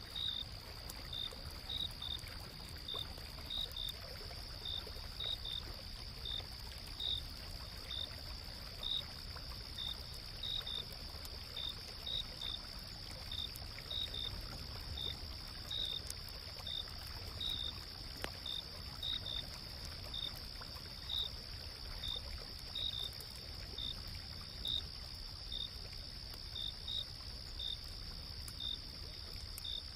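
Night insects calling: one steady high trill, with a cricket chirping about once a second, some chirps in pairs. A low, even rush of flowing stream water sits underneath.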